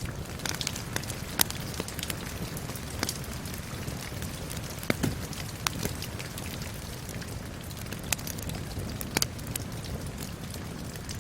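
Wood fire crackling, with sharp pops at irregular moments, over steady rain and a low rumble.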